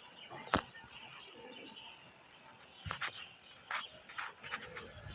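Domestic pigeons cooing, with short high bird calls between about three and five seconds. A sharp click about half a second in, and another near three seconds.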